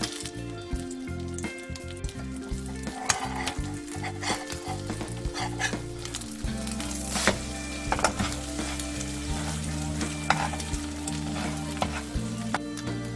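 Rice okonomiyaki sizzling as it fries in a pan, with repeated scrapes and taps of a spatula or utensil against the pan. Background music plays underneath.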